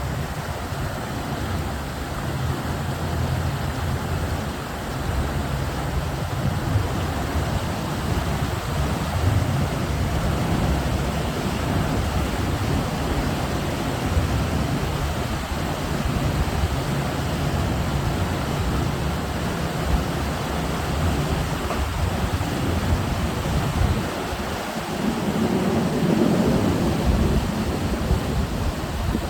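Boat engine running steadily under way, with wind rushing over the phone's microphone; the noise grows louder about 25 seconds in.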